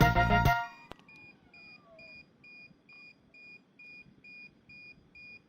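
Music cuts off about half a second in, then a faint electronic beeper sounds a short high beep about twice a second, evenly repeated.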